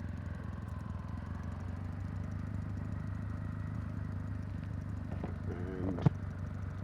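Kawasaki W800's air-cooled parallel-twin engine and exhaust running at a steady, low rpm, picked up by a microphone clipped close to the exhaust. A single sharp click about six seconds in.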